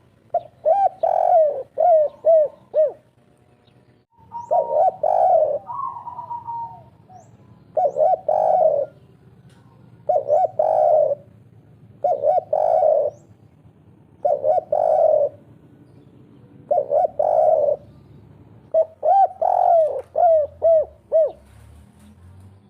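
Spotted dove (derkuku) cooing its 'kuk 3' call. It gives a run of about eight low phrases, one every two seconds or so, and the first and last phrases are longer, with several bouncing notes.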